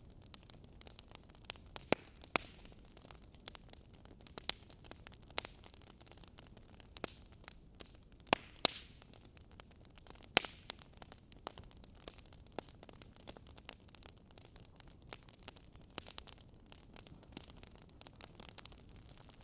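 Wood fire crackling in a fireplace: irregular sharp crackles over a faint hiss, with a few louder pops about two, eight and a half and ten seconds in.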